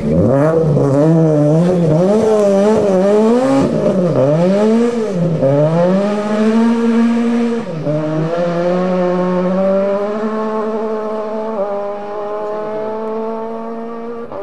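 Toyota GT86 rally car's flat-four engine revving hard, the revs swinging quickly up and down for the first five seconds. It then pulls up through the gears with a shift about eight seconds in and fades as the car drives away.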